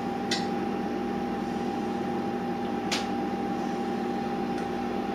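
Steady hum of a kitchen appliance's motor or fan, with two light clicks, one just after the start and one about three seconds in.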